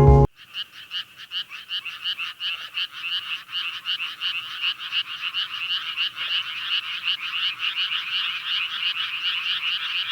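Chorus of frogs croaking in rapid, overlapping pulses, building gradually louder.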